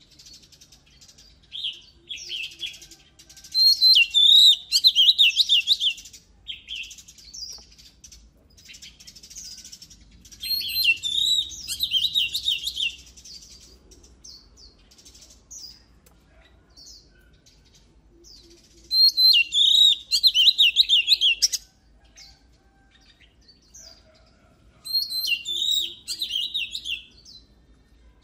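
Oriental magpie-robin singing: four loud bursts of rapid, varied whistled phrases, each two to three seconds long and several seconds apart, with softer scattered chirps in between.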